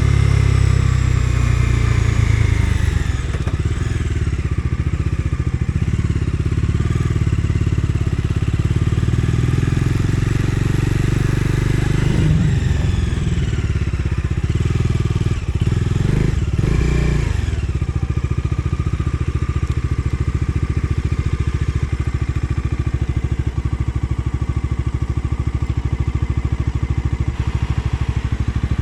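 Bajaj Dominar 250's single-cylinder engine running as the bike is ridden, its pitch shifting with throttle, then settling to a steady, even idle about two-thirds of the way in.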